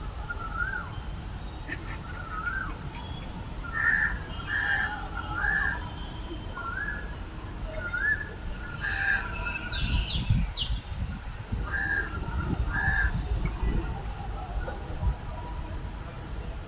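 Birds calling outdoors in short, repeated, rising notes, thickest in the first two-thirds, over a steady high-pitched buzz. Low rumbles come in around the middle.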